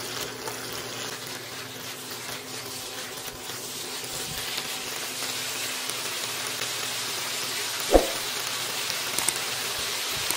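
Chayote squash strips sizzling steadily in oil in a nonstick wok over high heat, with a silicone spatula stirring through them at first. A single short tap about eight seconds in.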